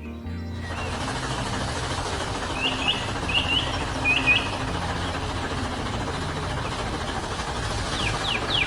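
Small birds chirping: three short rising double chirps a few seconds in, then a quick run of falling chirps near the end, over a steady low engine hum.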